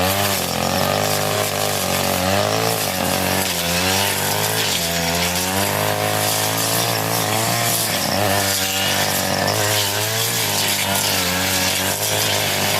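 A 40cc two-stroke brush cutter runs at high speed while it cuts thick grass. Its engine note repeatedly dips and recovers every second or two as the blade takes the load.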